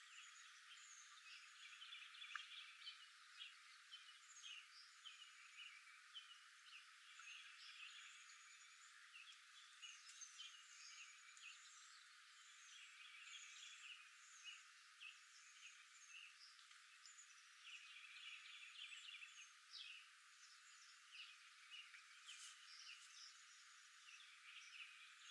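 Faint chorus of wild animal calls, many short chirps and trills overlapping one another, thin-sounding with no low end.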